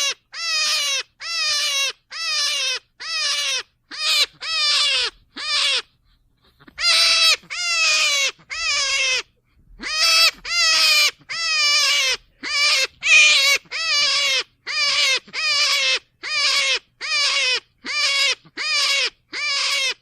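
Rabbit squealing over and over: short, high calls that each slide down in pitch, about two a second, with a short pause about six seconds in.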